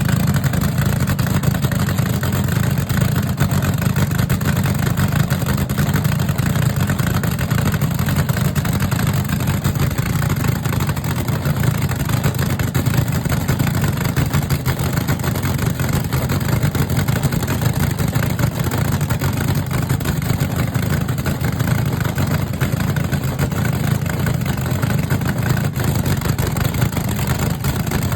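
A vehicle engine running steadily, mostly low in pitch, with constant noise over it and no change in speed.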